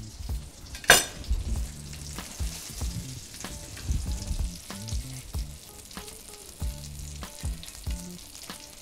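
Breaded chicken breast schnitzels sizzling in hot fat in a frying pan, with scattered clicks and knocks over it: a knife on a wooden cutting board at the start, and one sharp, loud knock about a second in.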